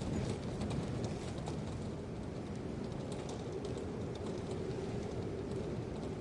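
Steady outdoor noise with light, irregular pattering, like light precipitation. A faint steady hum joins about halfway through.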